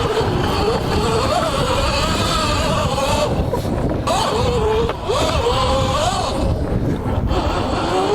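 Electric motor of a Cake Kalk INK electric dirt bike whining under throttle in third power mode, its pitch rising and falling as the rider accelerates and eases off, dropping out briefly twice, about three seconds in and near seven seconds, over a low rumble.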